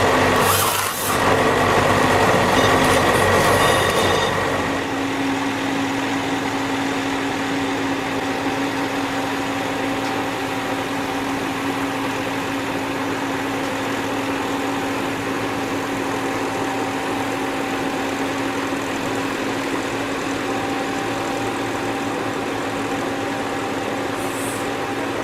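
Heavy machine engine running steadily. It is louder and fuller for about the first five seconds, then settles to an even drone with a steady low hum.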